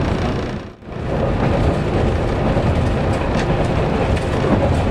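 Running noise of a 113-series electric train heard from inside the passenger car: a steady rumble of wheels on rail with a few faint clicks. The sound drops away briefly about a second in.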